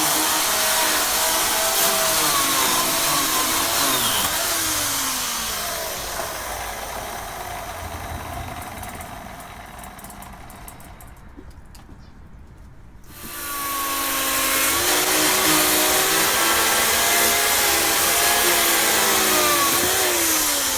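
Chainsaw running and cutting through logs, its engine pitch rising and falling as it bites into the wood. It fades away through the middle, then comes back loud suddenly about two-thirds of the way in.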